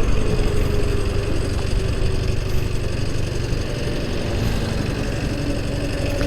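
Honda Activa 5G scooter's single-cylinder engine running steadily on the move, under a heavy low rumble of wind and road noise, its note drifting slightly lower.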